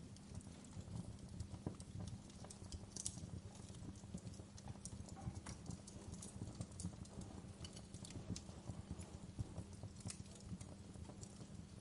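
Wood fire crackling, with irregular snaps and pops over a low steady rumble.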